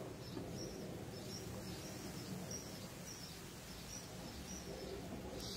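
A bird chirping over faint steady outdoor background noise: short high chirps repeating about two to three times a second.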